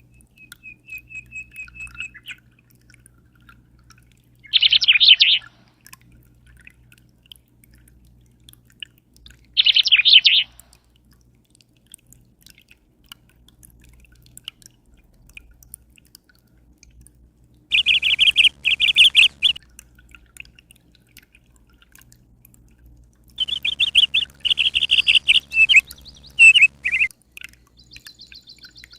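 A songbird singing in short, rapid trilled phrases every few seconds, the longest run near the end, over a faint steady low hum.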